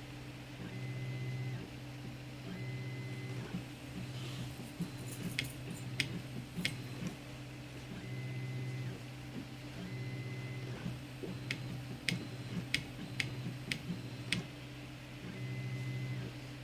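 Zonestar P802M 3D printer running a print: its stepper motors hum in a steady tone during each move, starting and stopping every second or so. Sharp clicks sound now and then between the moves.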